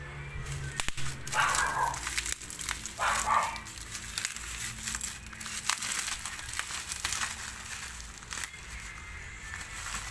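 A dog barks twice, then a run of scattered clicks and crackles.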